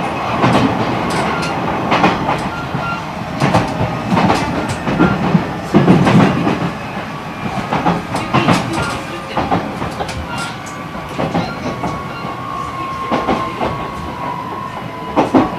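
E129 series electric multiple unit with a Toyo IGBT-VVVF inverter running on the line, its wheels giving irregular clacks over rail joints. A thin, steady motor whine sets in about two-thirds of the way through and falls very slightly.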